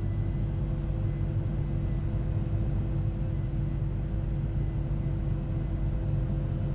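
Steady cockpit noise of a Gulfstream G-IV jet in flight: a low, even rumble of airflow and engines with faint steady hums above it, unchanging throughout.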